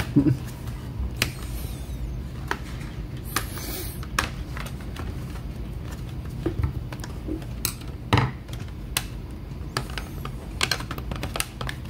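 Irregular clicks and taps of plastic laptop parts being handled and fitted together, with a short rustle about three and a half seconds in, over a low steady hum.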